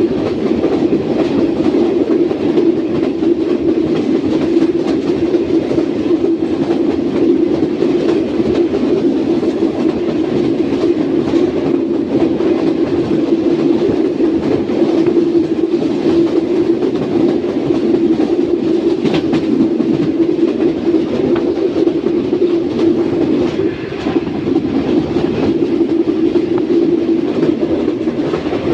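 Passenger coach wheels rumbling over the track at speed, heard aboard the moving train: a steady, even rumble with faint irregular clicks from the rails and one sharper click about two-thirds of the way through.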